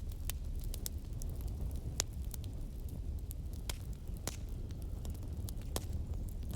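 Wood fire crackling: irregular sharp pops and snaps, some louder (one about two seconds in), over a steady low rumble.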